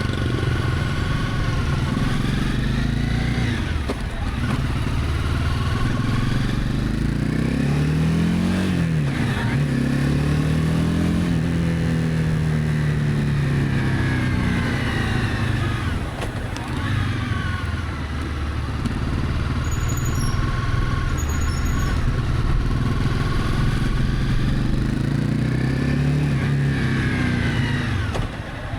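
Honda CB300F's single-cylinder engine under way on the road, its pitch climbing as it pulls and then dropping back, over and over.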